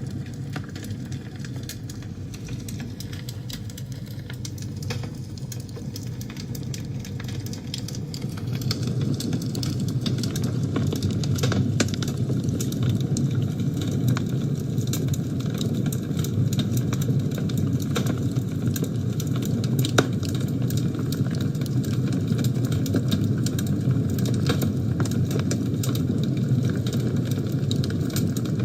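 Wood fire burning in a fireplace: a steady low rumble of flames with frequent small crackles and snaps, one sharper pop about two-thirds of the way through. The fire grows louder about a third of the way in.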